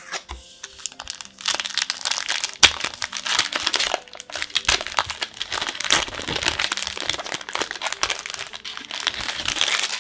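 Foil booster pack wrapper crinkling and crackling as it is handled and opened, dense from about a second and a half in, with soft background music underneath.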